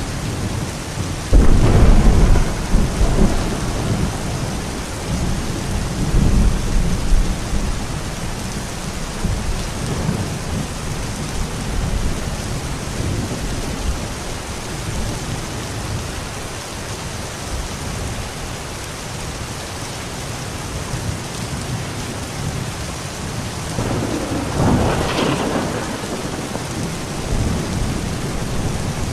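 Steady heavy rain with thunder: a loud rumble breaks about a second and a half in and rolls on for several seconds, and another rolls through near the end.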